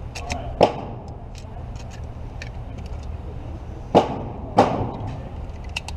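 Three gunshots at a shooting range: one about half a second in, then two about half a second apart around four seconds in. Fainter cracks and clicks from other firing fall between them, over a steady low hum.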